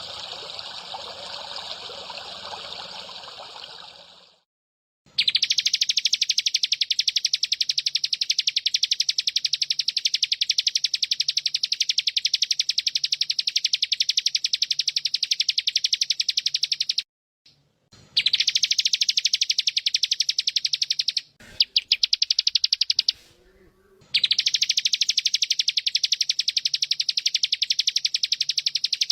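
Water trickling briefly, then a recorded animal call: a very fast, even, high-pitched trill that runs for long stretches, broken twice by short gaps. It is one of the masteran calls (bren, ciblek or cililin) used to teach caged songbirds.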